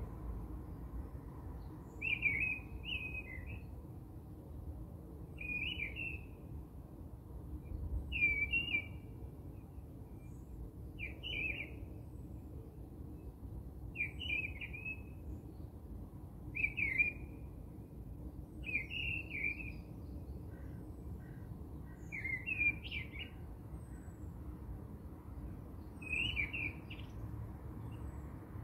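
A bird calling repeatedly, a short chirping phrase about every three seconds, over a low steady hum.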